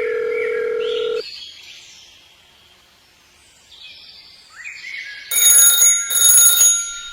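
A steady electronic beep that stops about a second in, then after a quiet stretch, loud pulsing bell-like ringing, like an alarm clock, starting near the end.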